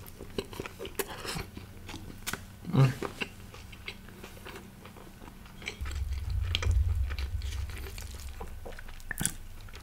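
Close-miked chewing: wet mouth smacks and small crunches of someone eating a mouthful of tandoori roti with paneer bhurji, with one louder moment about three seconds in.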